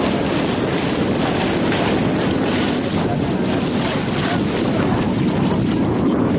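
Steady wind buffeting the microphone on a sailing ship, with the rush of water underneath.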